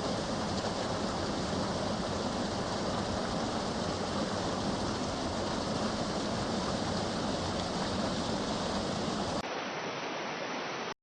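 Waterfall: a steady rush of falling water. About nine and a half seconds in it cuts abruptly to another stretch of falling water with less bass.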